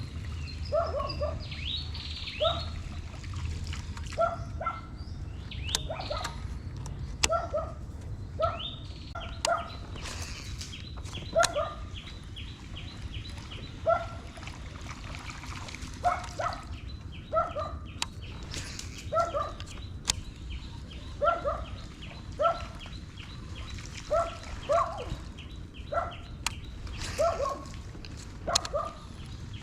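An animal calling over and over, short rising calls often in pairs, about once a second. A fast ticking runs underneath from about a third of the way in.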